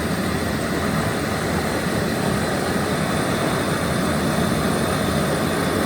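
A machine running steadily with a low, even drone.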